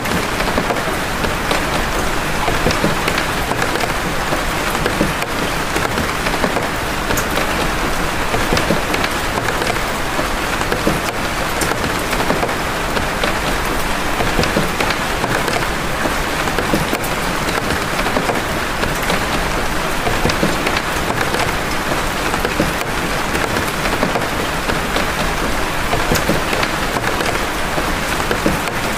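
Steady rain of big drops: a dense, even hiss with the sharp ticks of single drops scattered through it.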